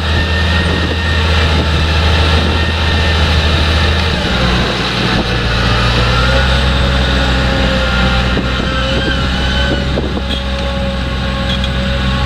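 Heavy diesel farm machinery at a potato harvest running steadily, with its engine note dropping about four seconds in and steady higher whines from the machinery above it.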